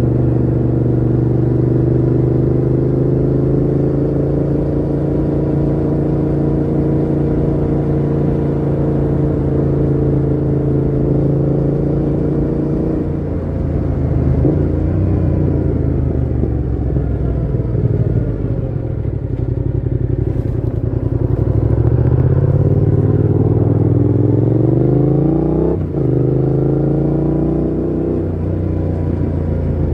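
Yamaha MT-07's parallel-twin engine through a Mivv GP Pro full exhaust with the dB killer fitted, heard from the moving bike. It holds a steady cruise for about the first half, then the pitch shifts, and it revs up steadily before an upshift cuts the pitch suddenly about three-quarters of the way in.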